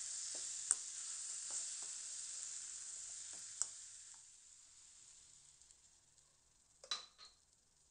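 Chopped spring onions and spices sizzling in a stainless steel kadai while a steel spatula stirs them, with two sharp taps of the spatula on the pan. The sizzle dies away about four seconds in, and a short ringing clink sounds near the end.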